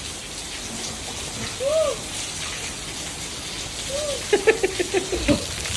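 Steady heavy rain pouring down. Two short rising-and-falling vocal sounds cut through it, one about two seconds in and one about four seconds in, followed near the end by a quick run of short voice sounds.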